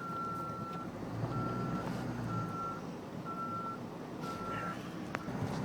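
A vehicle's reversing alarm beeping at one steady high pitch: one longer beep, then four shorter beeps about once a second. Underneath, a truck engine runs with a low steady drone, and a single sharp click comes just after five seconds in.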